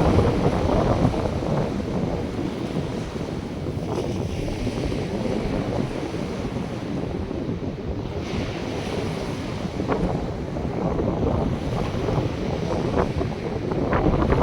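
North Sea surf washing onto a sandy beach, a steady rush of waves with a brighter hiss swelling a little after the middle, under wind buffeting the microphone.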